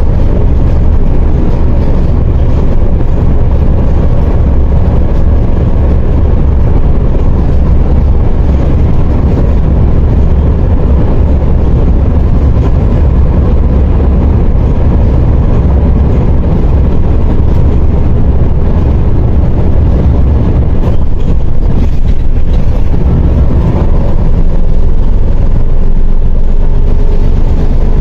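MAZ 104.021 city bus running on the road, heard from inside: a steady low engine and road rumble, with a rising whine near the end as the bus picks up speed.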